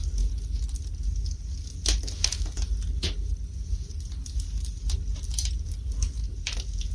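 Fire burning in a fireplace: irregular sharp crackles and pops over a steady low rumble, with the loudest pops about two and three seconds in and again near the end.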